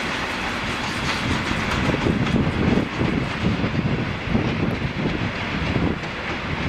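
Passenger coaches of a departing train rolling past on the rails. The higher rolling noise fades about halfway through, leaving an uneven low rumble.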